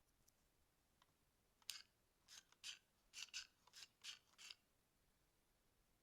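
LEGO Technic plastic parts being handled and worked apart: a quick run of about eight short, dry scraping rasps lasting some three seconds, starting nearly two seconds in.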